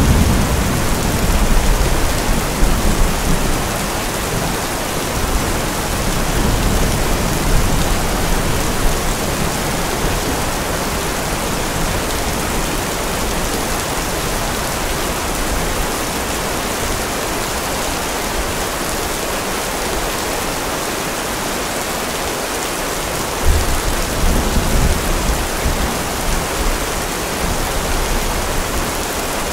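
Steady rain, with low rumbles of thunder in the first few seconds and again a little past the middle.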